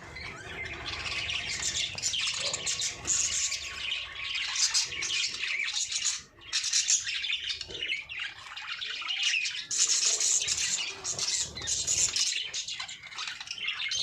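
A flock of budgerigars (parakeets) chattering, with many overlapping chirps, warbles and squawks.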